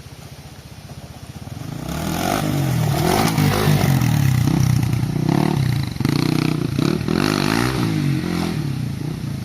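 Hero Xpulse 200's single-cylinder four-stroke engine revving hard under load on an uphill climb. It gets louder about one and a half seconds in, its pitch rising and dipping with the throttle, and eases off near the end.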